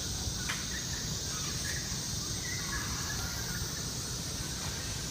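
Steady high-pitched insect chorus of the rainforest, with a few faint short chirping calls in the first three seconds.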